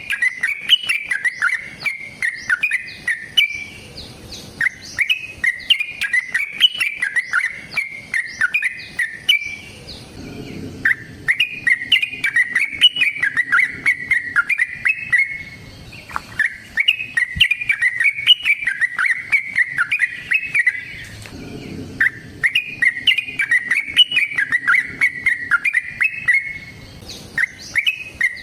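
Yellow-vented bulbul (trucukan) singing its long, rapid bubbling song. The song comes in about six phrases, each four to five seconds long, with brief pauses between them.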